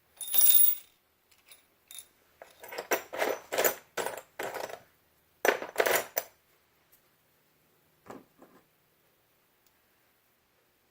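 Loose metal washers and small hardware clinking and rattling in a tray as they are sifted through by hand. The clinking comes in bursts: one at the start, a busy stretch over the next few seconds, and a faint rattle near the end.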